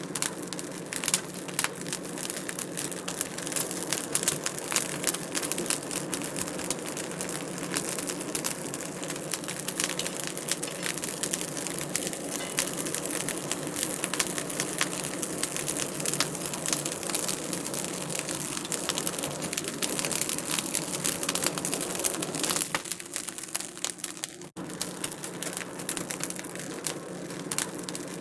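Wood fire crackling in a fireplace, a dense run of irregular pops and snaps. It dips quieter for a moment about 23 seconds in.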